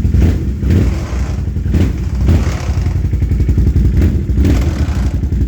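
Dirt bike engine running, a steady rapid pulsing of the exhaust that swells and eases slightly in loudness.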